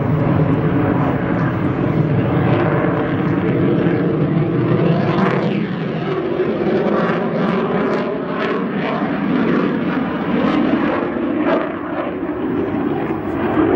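Jet noise from an F-22 Raptor's twin Pratt & Whitney F119 turbofans during a flying display: a loud, continuous roar with a steady whining tone through it, turning rougher with a rapid crackle from about five seconds in.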